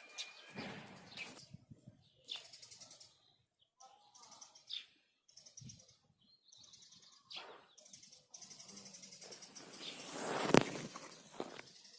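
Small birds chirping and trilling in short phrases. Near the end there is a louder rustling swell with one sharp click.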